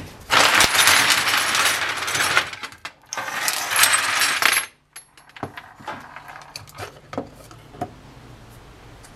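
Metal tools and parts rattling and scraping on a workbench in two loud bursts, the first about two seconds long and the second about a second and a half, then a few light clicks and knocks.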